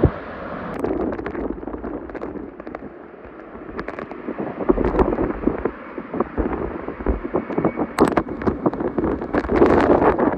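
Hurricane-force wind buffeting the microphone in gusts, full of sharp crackles and knocks. It rises in strength towards the end.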